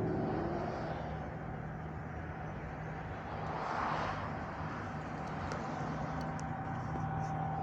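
A steady low drone with a fainter higher tone held above it, the unexplained 'sky trumpet' sound, metallic and trumpet-like. A broad whoosh of noise swells and fades about four seconds in.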